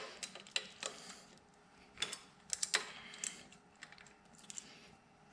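Irregular sharp metallic clicks and clinks of hand tools, sockets and a ratchet being handled and fitted, some in quick clusters.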